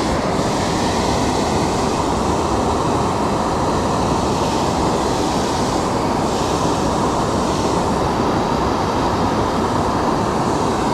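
Waterfall rushing: a loud, steady roar of falling water that neither rises nor falls.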